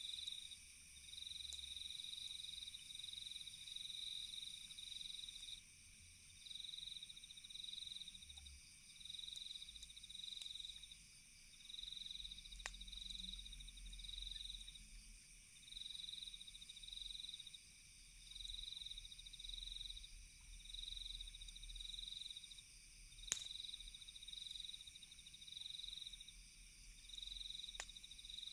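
Crickets chirping at night in short repeating bursts over a steady high-pitched insect trill, with three sharp pops from a crackling campfire.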